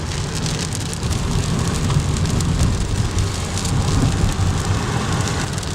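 Heavy rain pelting down with many fine drop impacts over a low rumble, as heard from inside a car in a thunderstorm.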